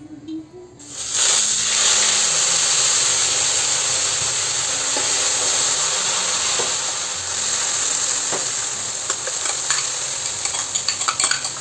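Wet onion-tomato masala paste going into hot oil tempered with cumin, mustard seeds and curry leaves in a metal kadai: a loud sizzle starts suddenly about a second in and carries on steadily, easing a little. Near the end come clinks and scrapes of a steel ladle against the pan and bowl as the paste is stirred in.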